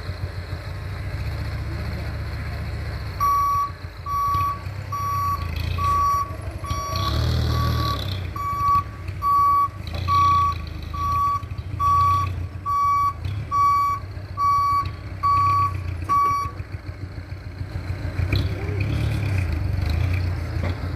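Dump truck reversing: its reverse alarm beeps steadily at about one beep a second over the engine running low. The beeping starts about three seconds in and stops after about thirteen seconds.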